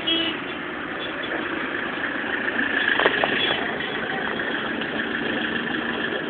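Car engine idling steadily, heard from inside the car, with a short click about three seconds in.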